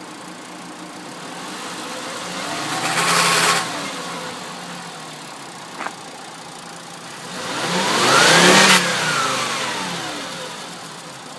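2005 Volkswagen Jetta's 2.5-litre five-cylinder engine, which has a misfire, idling and revved twice: each time the revs climb, the throttle is let go and the revs drop back to idle. The second rev goes higher than the first. A short click about six seconds in.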